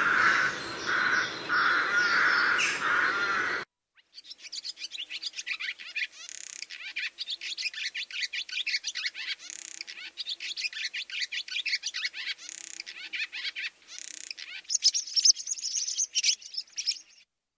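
A rook cawing several times, cut off abruptly after about three and a half seconds. After a short gap, a barn swallow sings a long, fast, high twittering song that stops just before the end.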